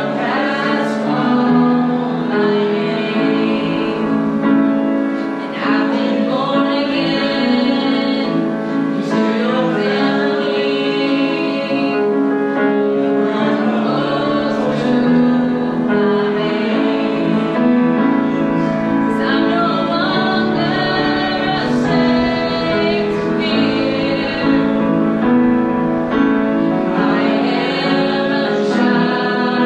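Congregational worship song: a female worship leader singing with the congregation, accompanied by piano and band.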